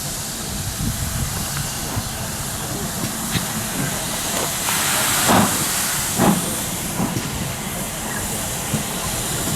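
Steam locomotive hissing steadily, with a few sharp louder bursts of steam, the two strongest about five and six seconds in.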